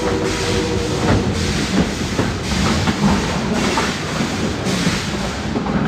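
Tweetsie Railroad narrow-gauge train running, heard from aboard: a steady rumbling rattle with a regular pulse about once a second.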